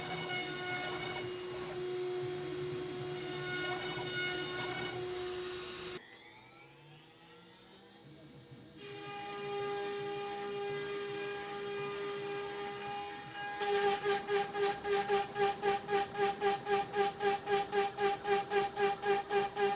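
PrintNC CNC router's spindle whining as an end mill cuts birch wood. About six seconds in, the sound drops quieter for about three seconds, with pitches sliding, then comes back steady. In the last third it pulses about three times a second.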